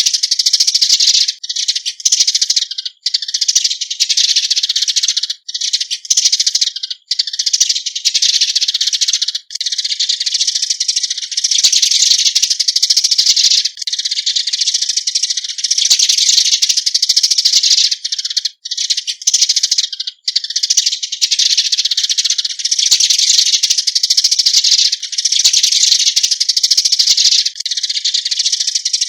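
Eurasian tree sparrows giving flock calls: a dense, nearly unbroken run of rapid high chirps, broken by a few brief gaps.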